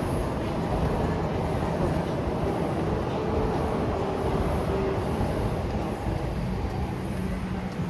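A large vehicle running close by: a steady low rumble with a faint hum in the middle.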